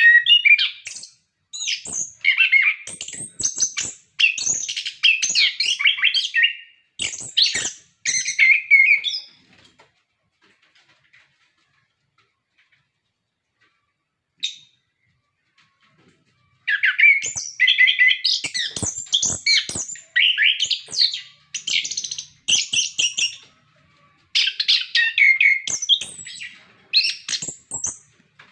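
Chestnut-capped thrush singing in full voice: fast runs of varied, high whistled and chattering notes, breaking off for a pause of several seconds midway and then starting again.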